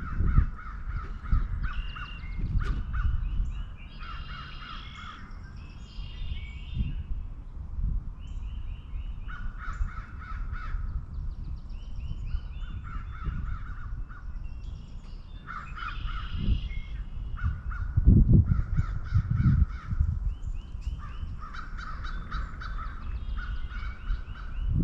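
American crows cawing in repeated bouts of short, harsh caws, several calls to a bout, with short pauses between bouts. A low rumble runs underneath and grows louder for a few seconds near the end.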